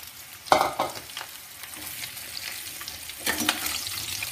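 Turnip pieces sizzling in hot mustard oil in a steel pot, stirred with a metal spoon that scrapes and clatters against the pot. There is a loud clatter about half a second in and more clattering from a little after three seconds.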